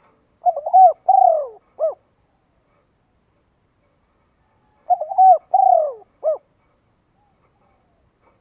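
A bird calling twice, about four and a half seconds apart. Each call is a three-note phrase: two arching notes followed by a short clipped final note.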